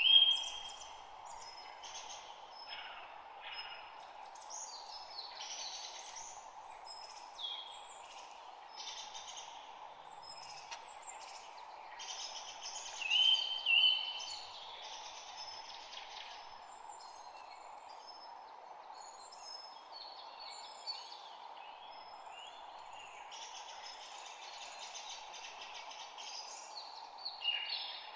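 Several birds chirping and calling in a dense mix of short notes, with a louder two-note call at the start and again about thirteen seconds in. A steady background hiss runs underneath.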